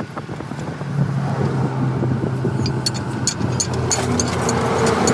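A machine running with a steady hum that shifts in pitch, joined about halfway in by a run of rapid, sharp metallic ticks.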